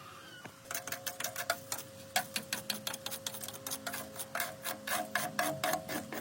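Rapid metallic clicking, about five or six clicks a second, starting just under a second in, over a faint steady hum.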